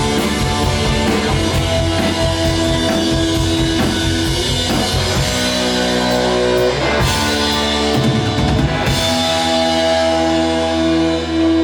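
Live rock band playing: drum kit and electric guitars. About nine seconds in, the drums stop and the held chords ring on.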